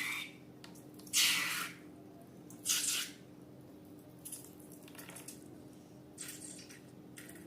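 Wet squelches of slime being squeezed and worked by hand: three louder squishes in the first three seconds, then softer ones, over a faint steady hum.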